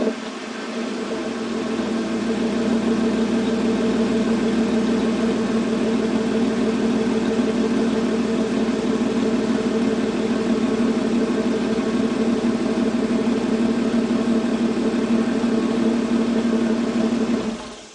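2005 Dodge Dakota's 3.7L V6 running at a steady idle through a Flowmaster Original 40 Series muffler with a side-exit exhaust. The level settles over the first two seconds, and the sound cuts off suddenly near the end.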